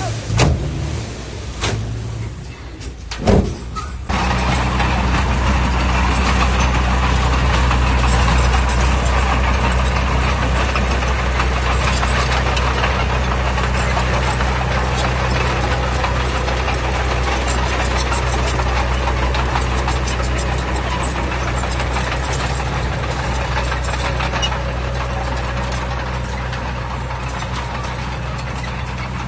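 Heavy diesel earthmoving machinery: a few knocks over a low engine hum, then about four seconds in the engine jumps to a loud, steady working pitch under load and holds there, easing off slightly near the end.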